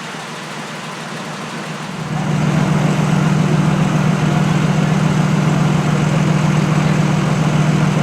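Fire truck's diesel engine running close by: a steady low drone that swells much louder about two seconds in and holds at an even pitch.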